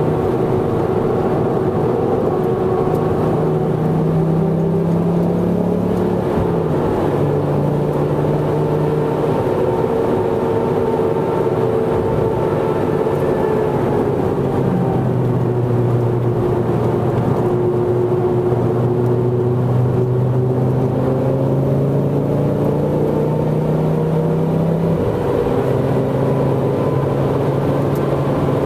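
Ford Focus ST Mk2's turbocharged 2.5-litre five-cylinder engine pulling hard at track speed, heard from inside the cabin over steady tyre and road noise. Its pitch changes in steps as the revs and gears change, dropping about halfway through and rising again near the end.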